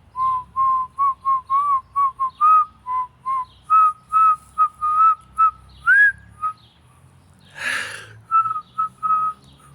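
A person whistling a tune in short, separate notes. The melody steps up in pitch partway through and has one upward slide, and there is a short breathy noise about two-thirds of the way in.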